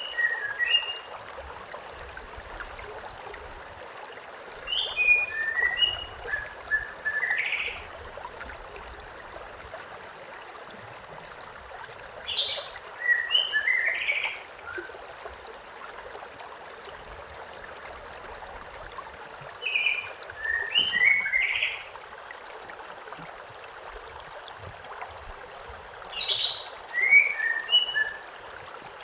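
A small river or stream running steadily, with one songbird repeating the same short phrase of quick high chirps about every seven seconds, five times.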